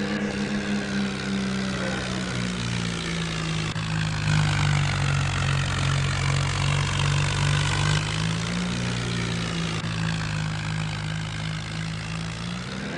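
New Holland tractor engine running steadily under load as it pulls a loaded trolley, its pitch rising a little a few seconds in and easing back near the end.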